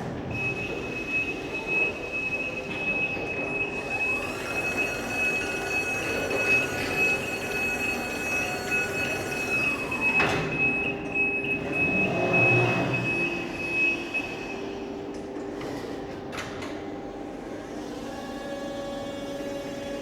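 Electric reach truck running, with a steady high-pitched tone until a few seconds before the end. An electric motor whine rises in pitch about 4 s in, holds, and winds down about 10 s in.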